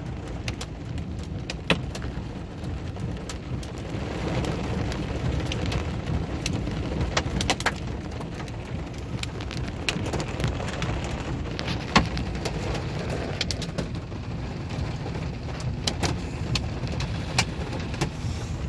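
Hailstorm: large hailstones, up to about an inch and a half across, striking hard surfaces as scattered sharp knocks over a steady hiss of heavy rain, a few knocks much louder than the rest.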